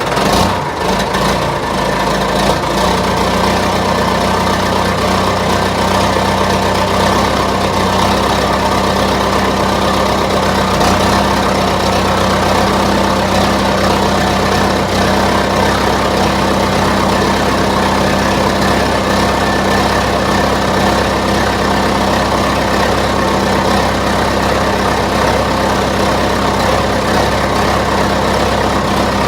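Straight-piped diesel engine of a 1978 John Deere 450C loader on a cold start after sitting about four months, catching right at the start and settling into a steady idle within a few seconds.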